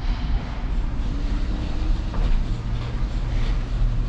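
Truck engine running steadily with a low drone.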